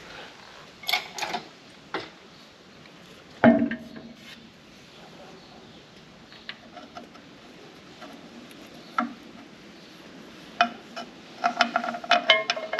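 Steel bolts and nuts clinking and knocking against steel as they are handled and fitted by hand. Scattered single clicks, one sharper knock about three and a half seconds in, and a quick run of ringing clinks near the end.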